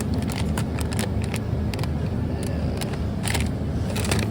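Shopping cart and packages rattling and clicking as groceries are put in. Irregular clusters of sharp clicks sound over a steady low rumble.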